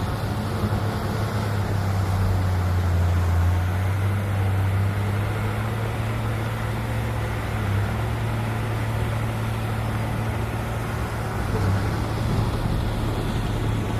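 Heavy diesel engine of earthmoving machinery running steadily with a deep, even hum, with the clatter of work around it.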